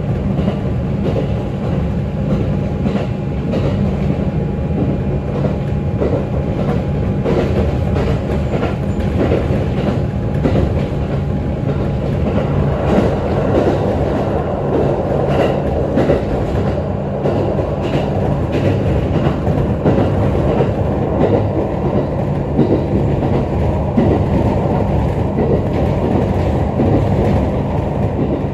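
ET127-series electric multiple unit running at speed, heard from inside the carriage: a steady rumble and hum with the clickety-clack of wheels over rail joints throughout.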